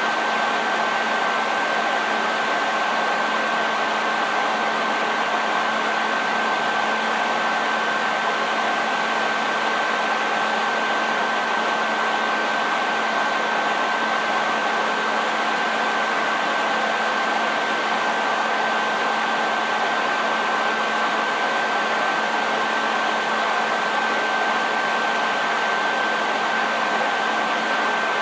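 Handheld hair dryer running continuously at a steady speed: an even rush of blown air with a constant high whine from the motor and a faint low hum underneath.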